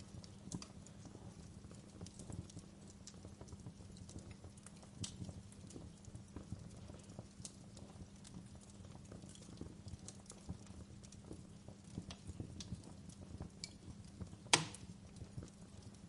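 Wood fire crackling in a fireplace: irregular small pops and snaps, with one louder pop near the end, over a low steady background noise.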